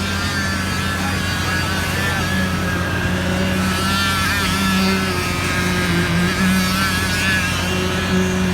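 An engine running steadily on the slab pour, a constant low hum, with faint wavering sounds above it.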